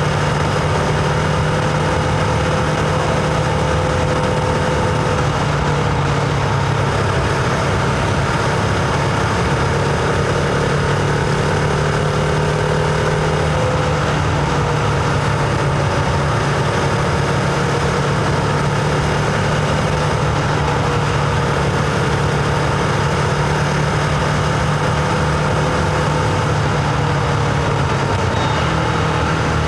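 Husqvarna Vitpilen 701's single-cylinder engine running at a fairly steady cruising speed, heard from on board, with small shifts in pitch and a steady rush of wind and road noise.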